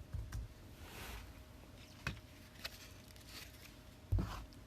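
Trading cards being handled on a table: a few light clicks and taps, with a louder thump about four seconds in.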